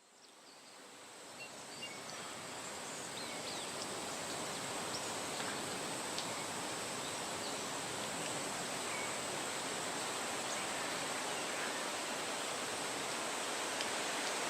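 Nature ambience: a steady rushing wash of noise, fading in over the first few seconds, with a thin steady high tone and scattered faint short chirps above it.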